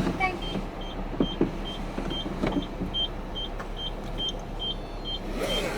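A short, high electronic beep repeating evenly about twice a second over a low steady hum, with a few scattered clicks.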